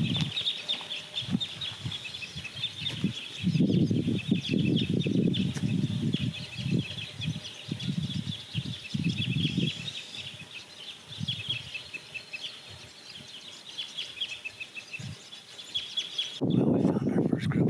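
Birds chattering in a continuous stream of rapid high notes, broken by louder bursts of low rumbling about four seconds in and again around eight to ten seconds. Near the end the bird calls stop and a steady low rumble takes over.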